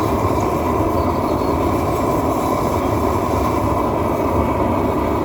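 Gas roofing torch burning steadily, a loud even rushing noise with no let-up.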